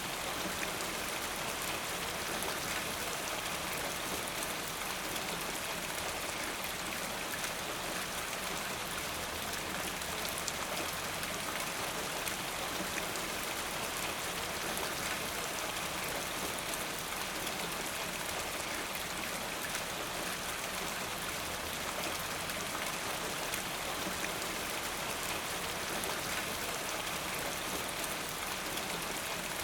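Steady rain falling: an even hiss of many drops, with faint single drop taps scattered through it.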